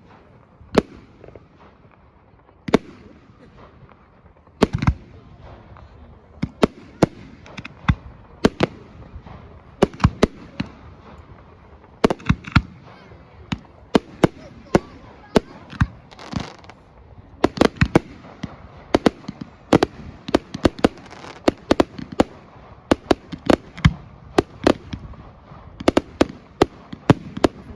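Fireworks exploding in sharp bangs, a few widely spaced at first, then coming thicker and faster until they follow each other in rapid volleys in the second half.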